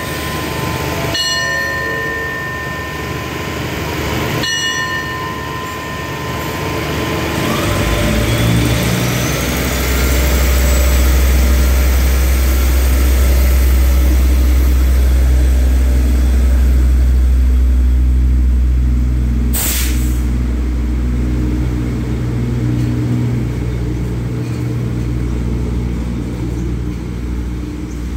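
A diesel passenger train pulls out of the station. A steady high tone sounds over the idling train for the first several seconds. From about eight seconds in, a heavy deep engine rumble builds as the train gets moving, with a rising whine, and carries on to the end. One sharp crack comes near the twenty-second mark.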